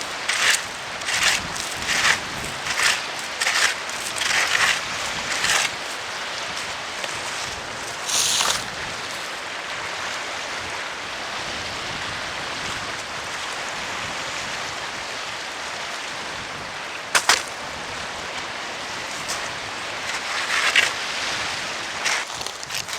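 Steady outdoor wind and sea hiss. Over it, in the first five seconds, a regular run of about eight strokes, roughly one every 0.7 seconds, with a single sharp knock about 17 seconds in and a few more strokes near the end.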